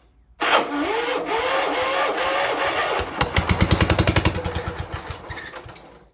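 Kohler Magnum 14 single-cylinder engine being cranked by its electric starter, a whine rising and falling with each compression stroke. About three seconds in it fires and sputters in rapid pulses for a couple of seconds, then dies away near the end. This is its first start after sitting for a long while.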